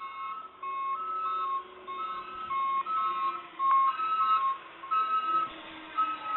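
Electronic warning alarm beeping in two alternating pitches, about two beeps a second, over a faint low hum, with one sharp click about halfway through.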